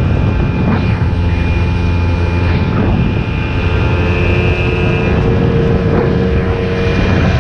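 Boat's outboard motor running steadily at speed, a loud low hum with engine tones over rushing noise, with a few faint knocks.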